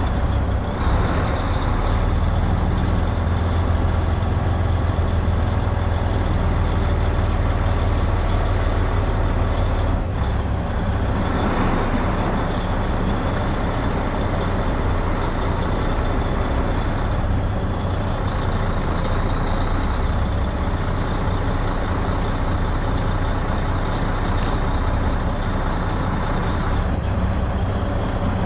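Semi truck's diesel engine running steadily, with a faint steady high whine above it.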